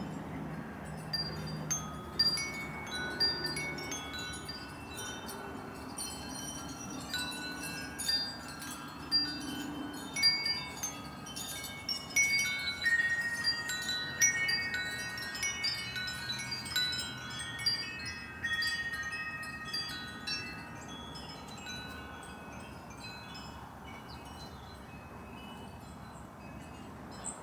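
Wind chimes ringing, struck irregularly by the wind, with many overlapping metallic tones that die down over the last several seconds.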